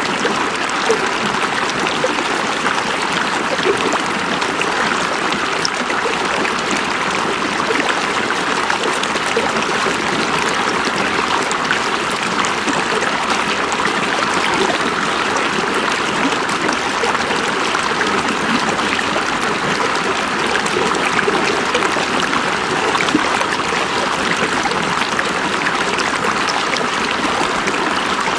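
River water flowing, a steady, even rush of a stream with no breaks.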